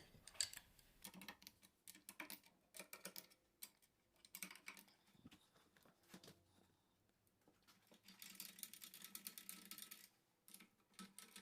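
Faint clicking and rattling of hand tools and small metal parts as an alternator is being taken apart, with a denser run of quick clicks from about eight to ten seconds in.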